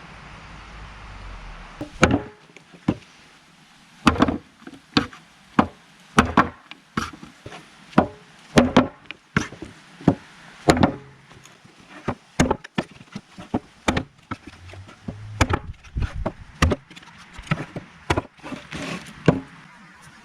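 CRKT Kangee T-Hawk tomahawk chopping into wood: a long run of sharp hacks, one or two a second, starting about two seconds in.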